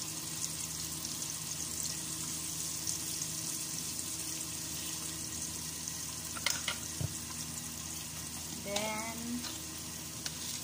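Garlic frying in cooking oil in an aluminium pot: a steady sizzle with fine crackling, and a few sharp clicks a little past the middle.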